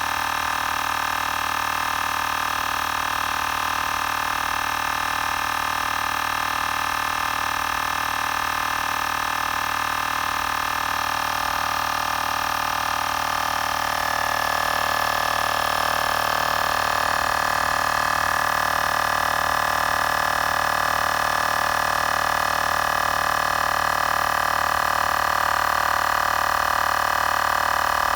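Xiaomi Portable Electric Air Compressor 2 running steadily as it pumps up a spare tire, a constant whine that gets slightly louder and shifts in tone about halfway in.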